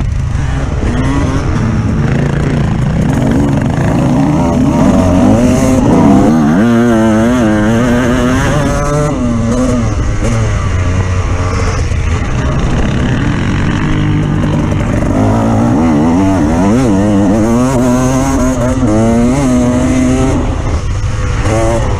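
Off-road vehicle engine running loudly throughout, its pitch repeatedly rising and falling as it revs up and eases off under varying load.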